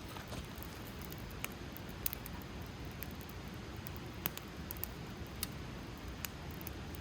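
Wood fire crackling: sharp pops and snaps every second or so over a steady low rumble.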